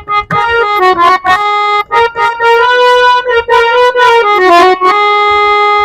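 Instrumental interlude of a devotional bhajan: a reedy keyboard melody of held notes stepping up and down, with percussive strokes between them.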